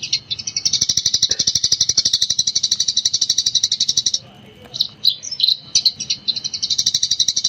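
Eurasian tree sparrow singing in the rapid 'gecor' style: long, fast runs of high chirps. About four seconds in the run breaks off for a moment, leaving a few separate chirps, and then the fast chattering starts again.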